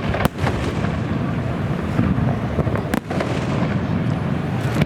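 Fireworks display: a continuous rumble and crackle of shell bursts, with sharp bangs about a quarter second in and about three seconds in.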